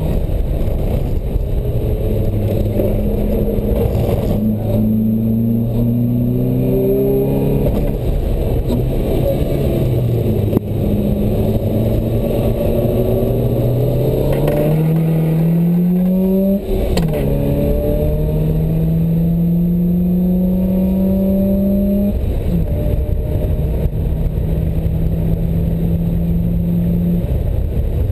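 Open-top sports car's engine heard on board under hard driving: it climbs in pitch under acceleration, eases off, then pulls up through the gears with a sudden drop at each upshift, about 16 and 22 seconds in. Steady wind and road noise over the open cockpit runs underneath.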